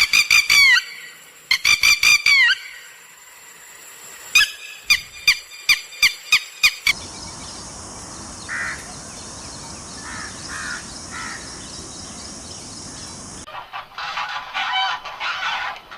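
Farmyard fowl calling: two bouts of repeated loud calls, then a quick run of about seven short calls. After that comes a steady hiss with a few faint calls, and near the end many birds call at once.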